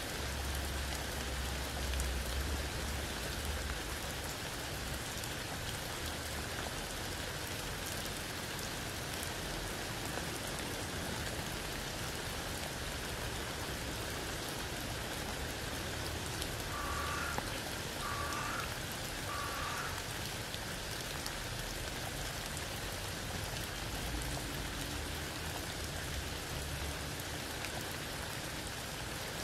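Steady rain falling through a tree's leaves onto wet ground and a puddle.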